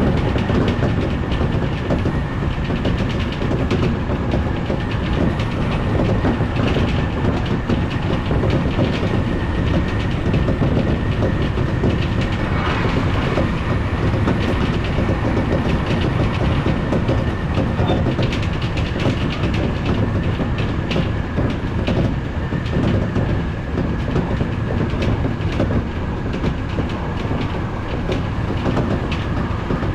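Odakyu Enoshima Line electric train running along the track: a steady rumble of wheels on rail with a dense run of small clicks, and a faint steady high whine over it, heard from inside the leading car.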